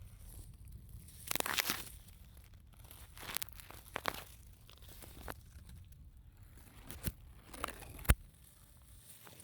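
Irregular crunching and crackling of dry leaves and twigs on a forest floor, with a sharp snap about eight seconds in.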